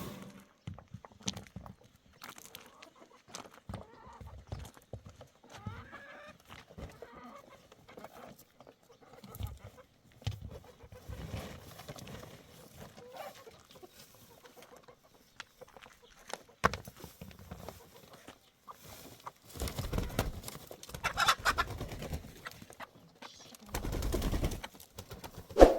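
Chickens clucking on and off, among scattered short knocks and rustles; the loudest stretch comes near the end.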